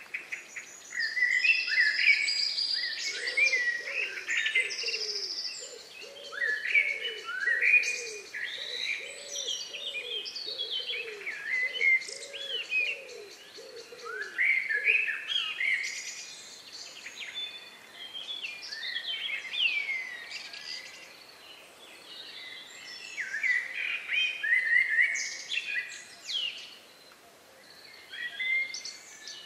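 Several birds singing, with short overlapping chirping and whistled phrases throughout. A lower call repeats about once a second underneath for the first half.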